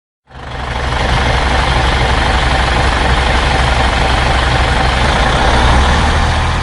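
A heavy vehicle engine running steadily: a loud, even rush of noise over a deep hum. It fades in quickly just after the start.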